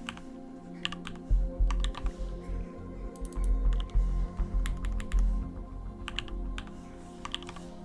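Computer keyboard typing, bursts of key clicks, over background music. A loud, deep low rumble comes in about a second and a half in and stops shortly before the end.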